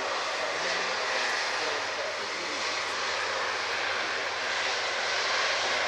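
Airliner engines heard as a steady, even rush of noise, neither rising nor fading much.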